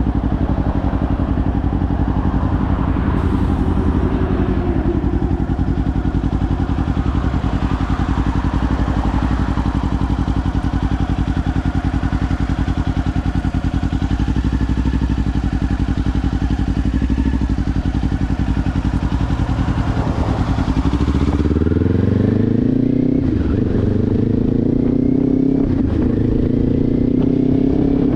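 Kawasaki Ninja 500 parallel-twin engine through a Leo Vince aftermarket exhaust, running steadily at low revs. About 21 seconds in it pulls away, the revs rising and dropping back at gear changes.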